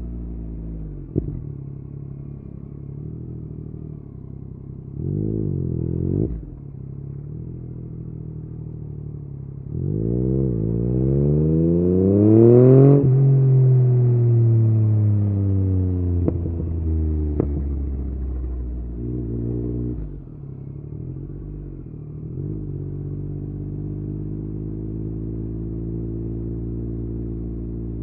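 Yamaha MT-09's three-cylinder engine through an Akrapovic exhaust, ridden in city traffic. It gives short throttle blips about five and nineteen seconds in, and a strong climb in revs from about ten seconds that peaks near thirteen, then falls away slowly. The note breaks briefly at gear changes and settles into a steady low-rev run near the end.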